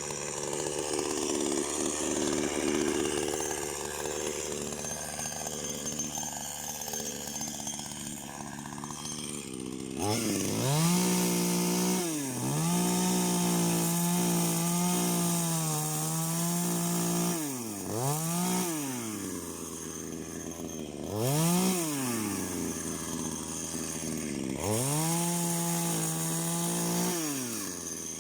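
Two-stroke chainsaw running. For the first several seconds its sound is rough and noisy; from about ten seconds in, the engine is revved up to full throttle again and again, holding the high note for a few seconds at a time before dropping back toward idle.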